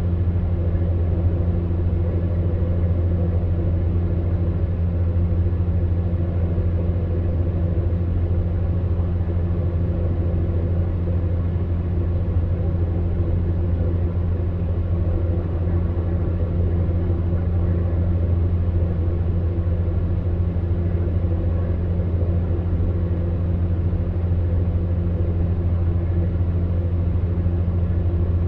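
Electric fan heater running, giving a steady low hum from its fan motor with a soft rush of air.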